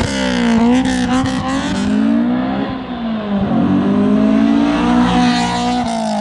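Honda S2000's 2.0-litre VTEC inline-four revving through an almost straight-piped Megan Racing 3-inch dual exhaust: the engine note falls, climbs again about halfway through, and drops back near the end.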